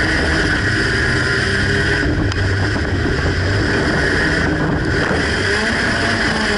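Demolition derby car's engine running loud and steady, heard from inside the stripped cabin, with a low rumble under a higher steady whine.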